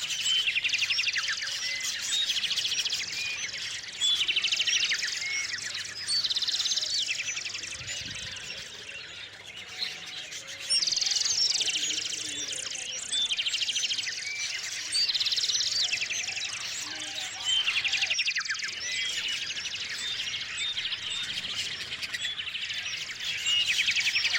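Small songbirds calling: short chirps and repeated trills, one coming every couple of seconds.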